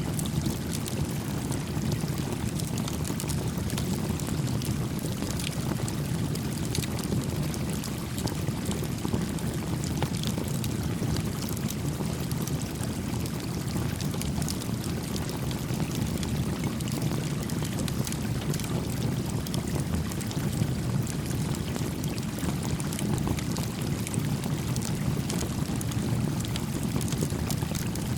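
Small stream flowing steadily, a low burbling rush of water, with scattered faint pops and crackles from a small wood campfire.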